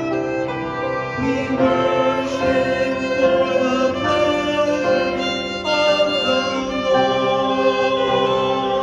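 An ensemble playing music led by violins, with sustained chords that change every second or so.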